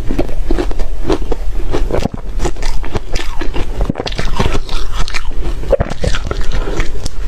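Reshaved refrigerator ice being bitten and chewed close to the microphone: a rapid, continuous run of crisp crunches, with brief pauses about two and four seconds in.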